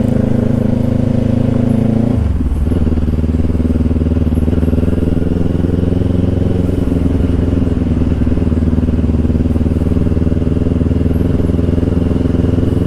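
Motorcycle engine running while the bike is ridden. The engine note drops sharply about two seconds in, then holds steady at the lower revs.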